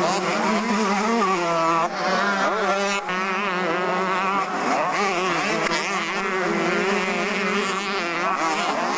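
Several 125cc two-stroke motocross bikes racing, their engines revving up and down in pitch. The sound changes abruptly about two and three seconds in.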